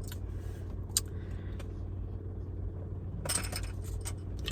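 Car engine idling with a steady low hum, a sharp click about a second in and a brief clatter of light clicks near the end.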